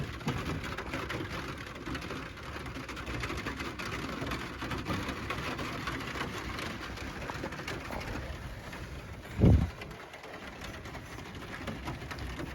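Rain falling steadily on a pickup truck's camper shell roof, heard from inside the shell, with one loud low thump about three-quarters of the way through.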